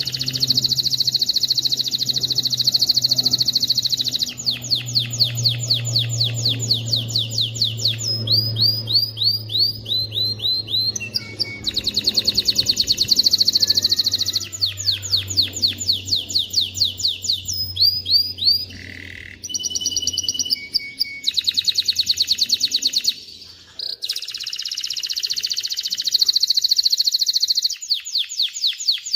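Male canary singing a long song of rapid trills. Each phrase is a fast run of one repeated note, and the bird switches to a new phrase every few seconds, with a short break about 24 seconds in.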